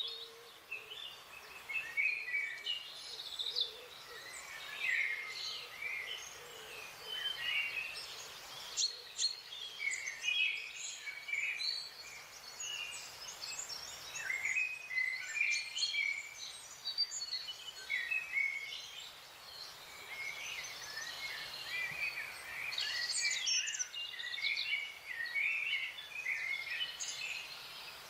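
Small forest birds chirping and twittering, many short quick calls overlapping, over a steady background hiss.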